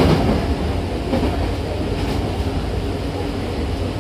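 Hankyu Takarazuka Line train heard from inside the car while running: a steady low rumble of wheels on rails, with a few faint clacks about a second apart.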